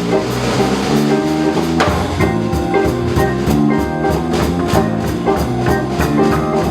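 A live band playing the instrumental intro of a blues song, with a steady drum beat under sustained notes.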